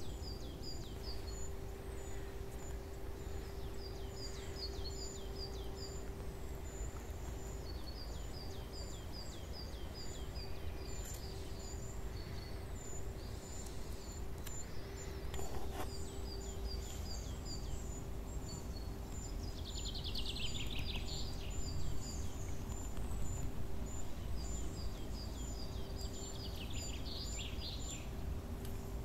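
Birds singing in woodland: repeated short runs of quick high chirps, over a steady faint high ticking and a low steady hum. Two louder rasping sounds come about two-thirds of the way in and near the end.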